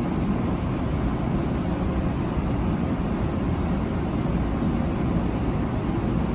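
700-series Shinkansen train running along the line, a steady low rumble of wheels and running gear with no change in level.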